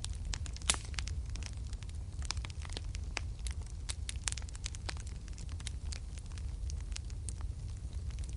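Wood fire burning in a fireplace: frequent sharp crackles and pops over a steady low rumble, with one louder pop near the start.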